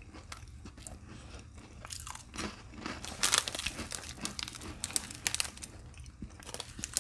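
A person chewing a saltine cracker topped with sardine, crunching close to the microphone, with louder crunches about three and five seconds in.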